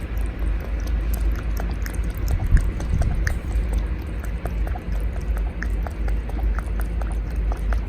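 Cat lapping kitten milk with its tongue: quick wet clicks, several a second, over a steady low rumble.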